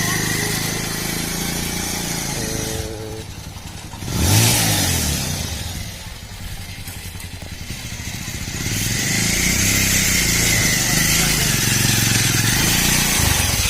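Small motorcycle engine running in a homemade mini jeep. It is revved briefly about four seconds in, drops back to a low idle, then picks up and runs steadily from about nine seconds.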